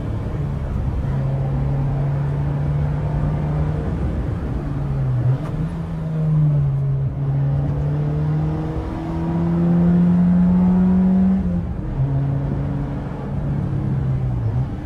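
Peugeot 206's four-cylinder petrol engine, breathing through a straight-pipe exhaust and an aftermarket intake, pulling hard under load. The revs hold, then climb and fall back several times as it is driven through the gears, loudest about six seconds in and again around ten to eleven seconds.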